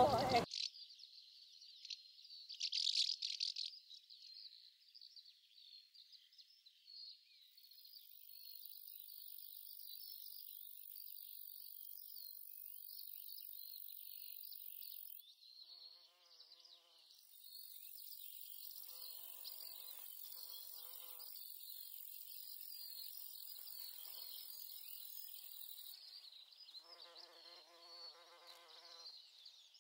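A steady high-pitched chorus of insects chirping, with a louder patch about three seconds in. A higher hiss comes and goes over it, and a few faint pitched sounds are heard later.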